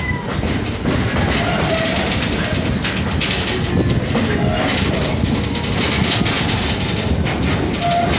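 Excursion train running along the track, a steady rolling noise of the cars and wheels on the rails, heard from on board.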